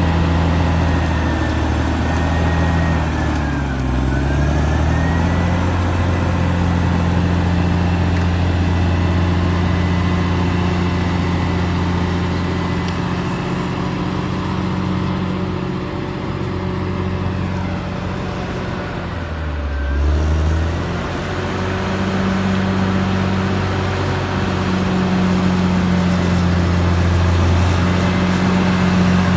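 Caterpillar D6R XL bulldozer's diesel engine running steadily, its revs dipping and picking up again twice, about four seconds in and again near twenty seconds.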